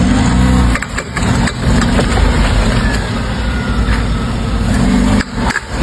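Fiat Uno engine running steadily, with a few short knocks about a second in and again near the end.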